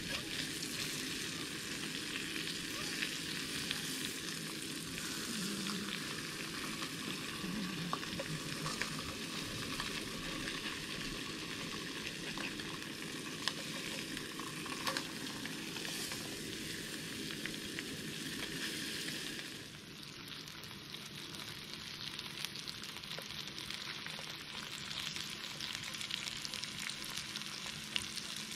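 Fish fillets and sliced peppers frying in a cast iron skillet on a gas camping stove: a steady sizzle, with occasional clicks of a utensil against the pan as it is stirred. About two-thirds of the way through, the sizzle becomes a little quieter.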